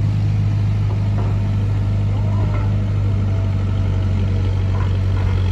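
Sonalika DI-35 RX tractor's three-cylinder diesel engine running steadily at an even speed, a deep constant drone with no revving.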